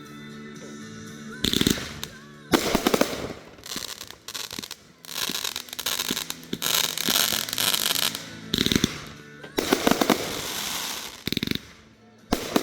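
Consumer fireworks going off at close range: several loud bangs, the first about a second and a half in, with long stretches of crackling between them.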